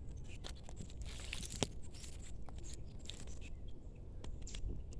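Hands working the sticks and cord of a homemade stick bird trap: scattered small clicks and rustles, with one sharp snap about a second and a half in.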